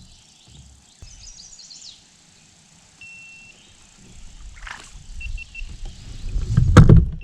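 A chest-mounted camera beeping as it dies: one long high beep about three seconds in, then a run of short even beeps near the end. Birds chirp about a second in, and a loud rustling knock just before the end is the loudest sound.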